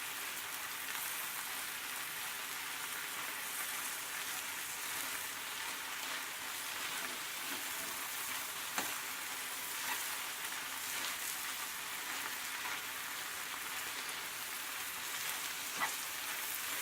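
Chicken and wilting spinach sizzling steadily in a frying pan, with a couple of brief sharp clicks.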